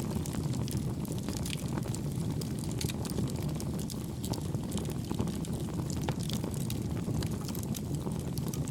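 Campfire burning with a low, steady rumble and frequent small crackles and pops from the burning wood.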